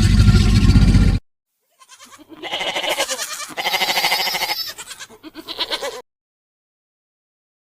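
A farm animal bleating: about three wavering bleats, one after another, from about two seconds in. Before them, a loud low sound from the previous clip cuts off about a second in.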